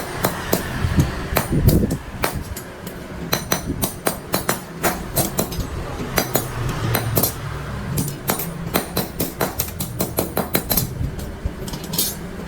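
Hand hammer striking metal machine parts in quick, irregular blows, several a second, over a low steady hum.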